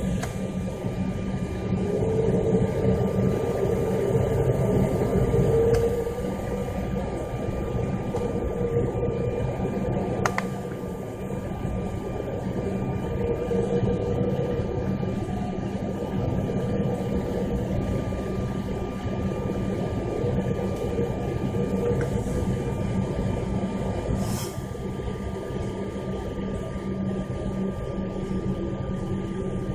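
Steady aircraft cabin noise: a constant engine drone and rumble with a few level hum tones, and a single click about ten seconds in.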